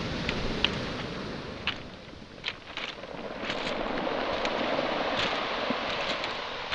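Waves washing onto a pebble shore, swelling about four seconds in, with sharp clacks of footsteps over pebbles and small boulders scattered throughout. Some wind on the microphone.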